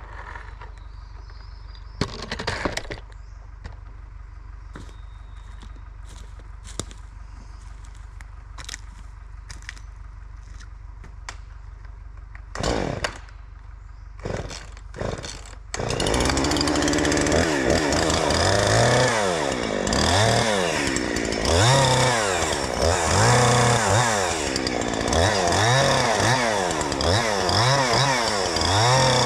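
For about the first half, a low steady idle with a few sharp knocks. Then a chainsaw runs loud at high revs, its pitch rising and falling again and again as it limbs a spruce log.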